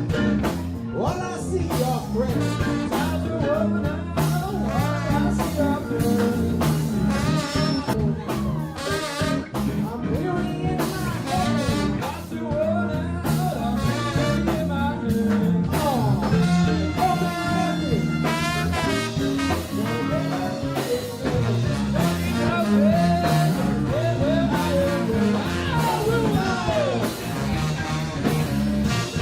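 A live band playing, with a singer over guitar and drums.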